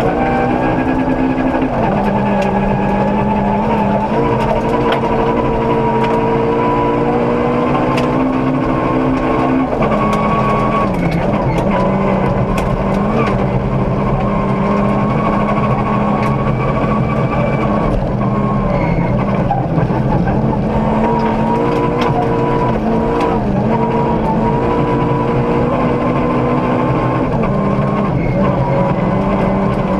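Ford Ka 1400 rally car's engine heard from inside the cabin, running hard at high revs on a gravel stage; its pitch drops and climbs back several times, about ten seconds in, near twenty seconds and again near the end. Scattered sharp ticks of gravel striking the car run over the engine note.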